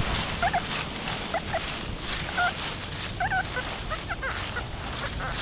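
XP Deus metal detector giving short warbling beeps about once a second, some rising and falling in pitch, over steady wind rushing on the microphone.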